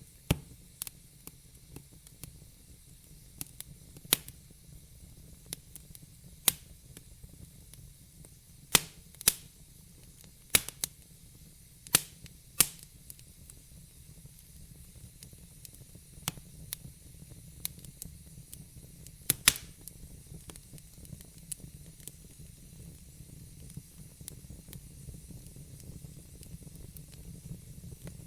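Wood fire in a fireplace crackling: sharp, irregular pops and snaps over a low, steady rumble of flame and a faint hiss, with the pops thinning out in the second half.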